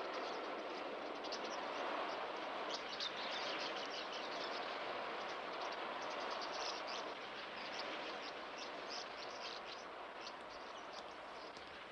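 Small caged birds chirping in quick, high twitters that grow busier toward the end, over a steady background hiss.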